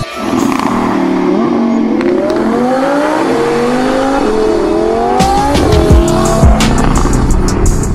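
Audi R8's V10 engine accelerating hard, its pitch climbing and falling back at each upshift as it pulls through the gears. Background music with drum hits comes back in about five seconds in.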